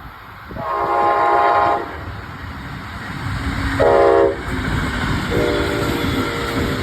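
Brightline train's air horn sounding for a grade crossing: a long blast, a short, louder blast about two seconds later, then another long blast near the end. This is the close of the long-long-short-long crossing signal, over the rumble of the passing train.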